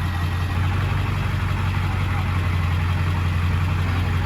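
Ford Power Stroke V8 diesel truck engine idling steadily through a straight-piped exhaust, with a deep, even rumble.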